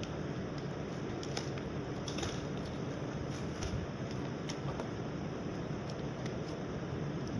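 Hands working open a tightly packed parcel: scattered clicks, snips and scrapes of packaging over a steady background hiss.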